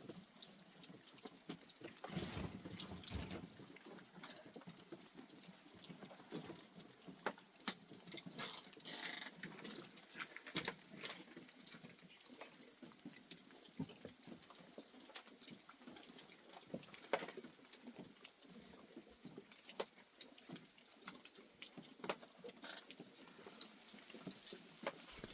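Irregular light tapping and pattering, many small clicks at uneven intervals, with a louder tap about two-thirds of the way through.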